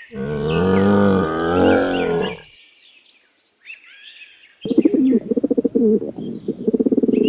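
A camel grumbling: one loud, deep, wavering bellow lasting about two and a half seconds. A few faint bird chirps follow, then from about two-thirds of the way in a low, rapidly pulsing call.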